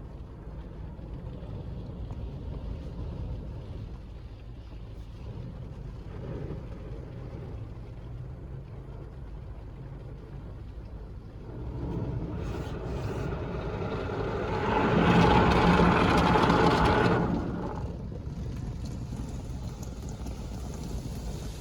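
D&S IQ 2.0 soft-touch in-bay car wash machine running with a steady low rumble. About halfway through, a louder rushing wash noise builds up, peaks for a few seconds, then drops back to the rumble.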